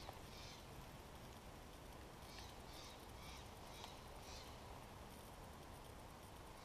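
Faint bird calls: one call near the start, then a run of about five calls roughly half a second apart, over a low steady hiss.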